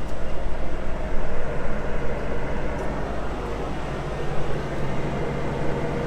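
Diesel engine of a grain road-train truck running steadily, a low continuous hum with no breaks.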